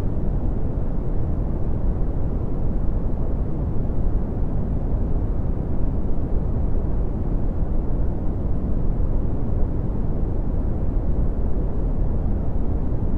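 Red (Brownian) noise: a steady, deep rumbling hiss with most of its energy in the low end, fading off toward the highs.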